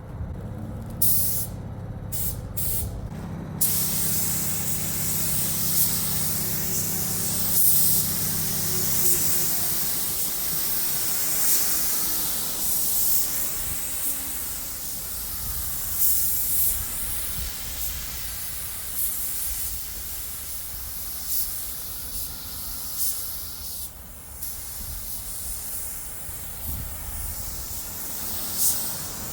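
Paint spray gun hissing as a top coat is sprayed on: a few short bursts, then long, near-continuous passes that swell and fade. A low steady hum sits underneath for the first several seconds.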